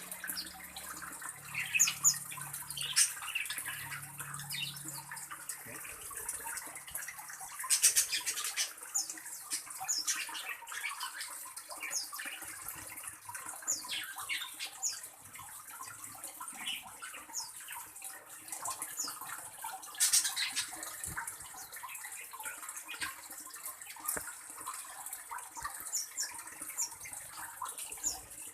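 Small birds giving short, high chirps again and again over a steady hiss like running water. Two louder, noisy bursts come about eight and twenty seconds in.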